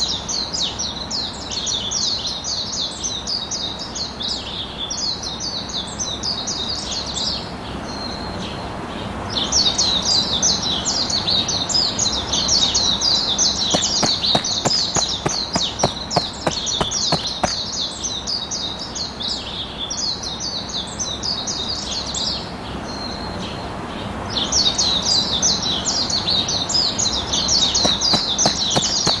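Many small birds chirping and twittering together in a dense, continuous chorus, with short lulls about eight seconds in and again about twenty-two seconds in. A run of quick sharp clicks sounds in the middle.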